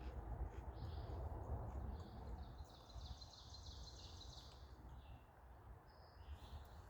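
Wild birds calling: a few short high chirps and one rapid trill lasting about two seconds, over a low steady rumble.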